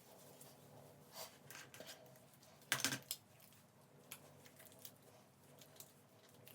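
Faint scattered clicks and rustles of small objects being handled, with a louder cluster of crackles about three seconds in, over a faint steady hum.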